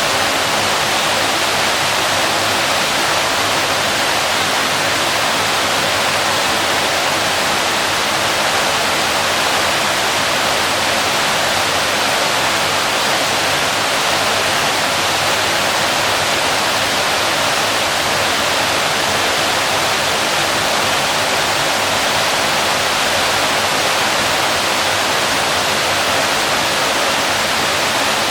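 A waterfall, its water falling and splashing in a steady, even rush with no breaks or changes.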